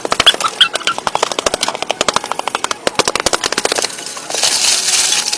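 Rapid sharp knocking, about a dozen strikes a second, which gives way about four seconds in to a steady hiss.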